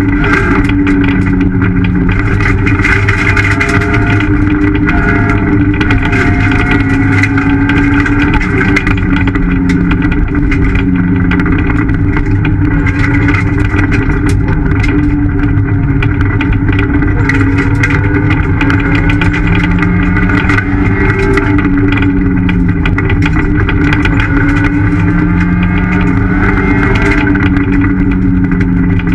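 Ford Fiesta ST rally car's engine heard from inside the cabin, driven hard: its pitch climbs and drops back again and again as it works through the gears. Under it a constant din of road noise with many sharp clicks and rattles.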